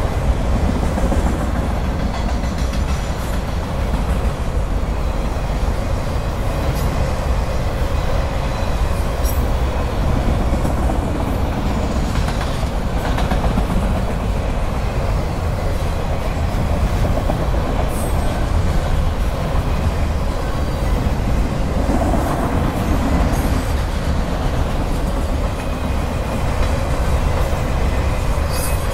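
Freight train's autorack cars rolling past at steady speed: a continuous rumble of steel wheels on rail.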